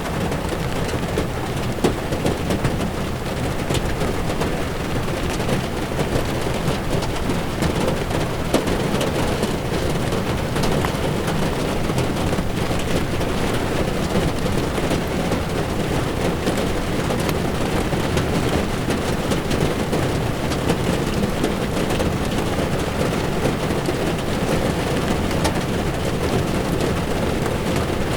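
Heavy rain pattering on a car's windshield and roof, heard from inside the moving car, over the steady low rumble and hiss of tyres on a wet road.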